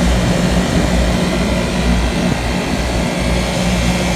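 Hitachi 30-ton package air conditioner running, its compressor and fans giving a steady low hum under a rush of air, while the system is being charged with R22 refrigerant after two compressors were replaced.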